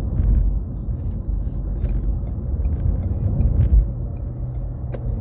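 Ford Fusion sedan heard from inside the cabin while driving: a steady low rumble of engine and road noise. An even engine hum comes in over the second half.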